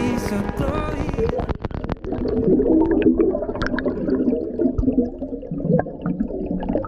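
Muffled underwater sound of bubbles gurgling and popping, with scattered clicks, after the backing song breaks off about a second and a half in.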